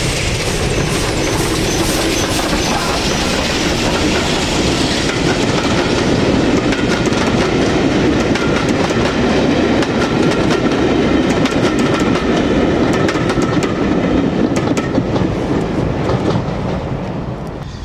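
Train passing close by, its carriage wheels clattering over the rail joints in a steady run of clicks, fading as it goes away near the end.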